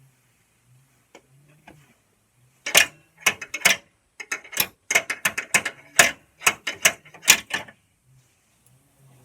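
A run of sharp, irregular metallic clicks and knocks from hand-tool work on a riding-mower deck, coming roughly two or three a second for about five seconds in the middle.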